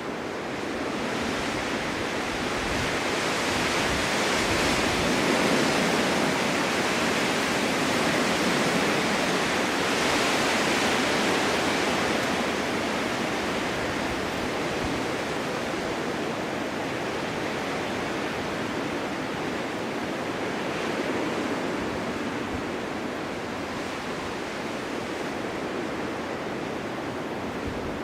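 Snowstorm wind blowing in a steady rush, swelling over the first few seconds and easing somewhat after about twelve seconds.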